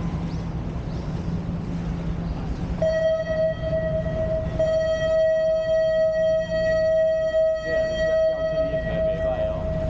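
Sightseeing boat's horn sounding one long, steady, high-pitched blast that starts about three seconds in and stops near the end, over the steady drone of the boat's engine.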